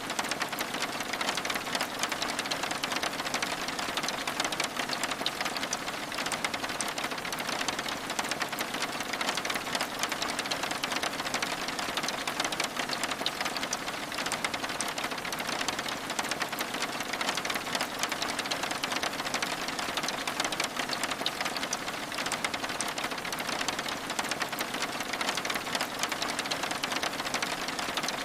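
Steady rain: an even, dense patter of countless small drop ticks that does not let up.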